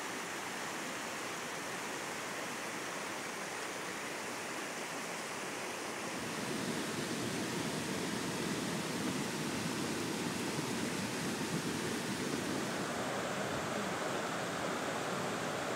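River water rushing steadily over rocks, growing a little louder and fuller about six seconds in.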